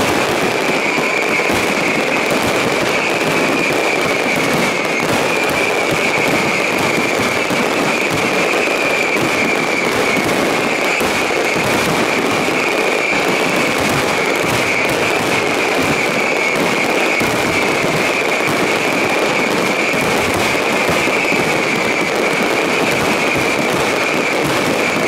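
Fireworks grand finale: a dense, unbroken barrage of shells bursting and crackling all at once, with a steady high tone running through it.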